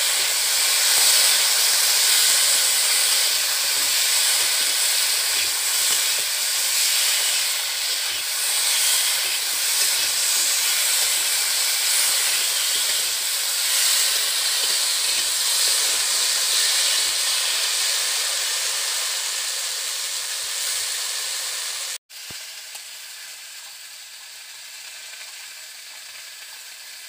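Potatoes and beans frying in hot oil in a steel wok: a steady loud sizzle, with the spatula stirring the pieces. About 22 s in the sound cuts and the sizzle goes on much quieter.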